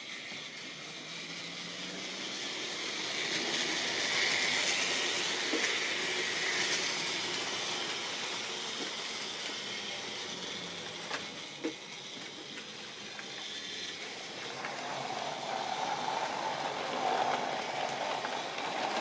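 Model train running on its track: a steady mechanical whirr and rattle that grows louder about four seconds in, eases off, then swells again near the end, with a couple of sharp clicks a little past the middle.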